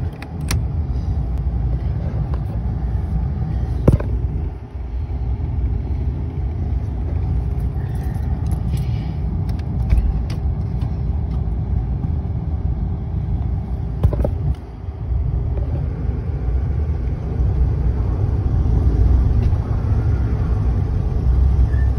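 Rear-wheel-drive Cadillac's engine running under throttle as the car tries to pull itself out of a snowy ditch, a steady low rumble throughout. Two sharp knocks come about four seconds and fourteen seconds in.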